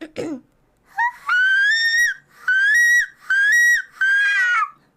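A woman imitating a seagull's cry with her voice, squeezing her throat: a short rising note about a second in, then four long, loud, high-pitched calls.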